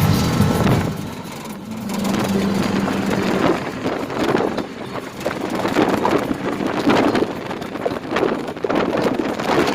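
A motor vehicle on the move, with a steady low hum that fades about three seconds in, then uneven rushing and gusts of wind on the microphone.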